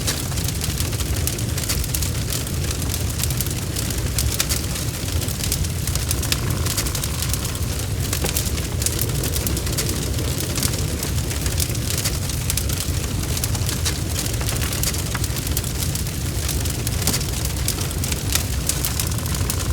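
Wood fire burning in a fireplace: a steady low rumble of flames with many small, sharp crackles and pops at irregular intervals.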